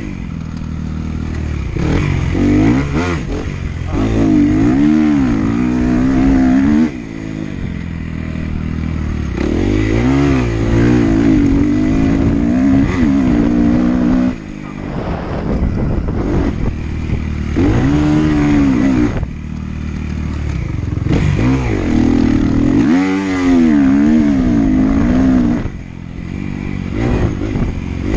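Dirt bike engine ridden hard around a motocross track: the revs climb and fall over and over as the rider works the throttle and gears, with the engine note dropping sharply every several seconds when the throttle is shut off.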